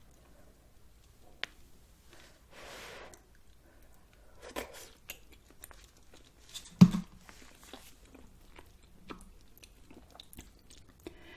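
Close-miked chewing of a soft, chewy rice cake, with wet mouth clicks and smacks. There is a short breathy hiss about two and a half seconds in, and the loudest sound is a sharp smack near the middle.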